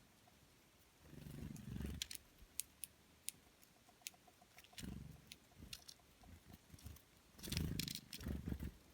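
Low, rumbling animal calls in three bursts, with scattered sharp clicks in between.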